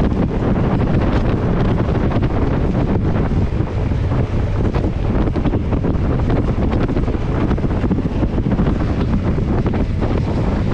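Strong wind buffeting the microphone: a steady low rumble with many small sharp crackles and knocks throughout.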